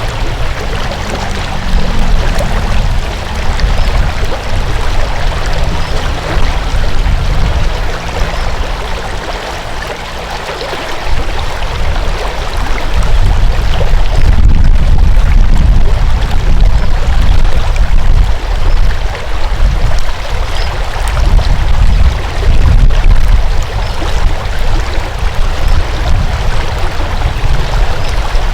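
Flowing water rushing steadily, with a heavy, uneven low rumble of wind buffeting the microphone that eases around ten seconds in and returns strongly a few seconds later.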